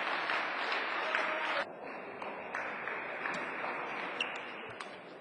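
Crowd applause in a sports hall, cut off abruptly about a second and a half in, giving way to quieter hall noise with a few sharp taps.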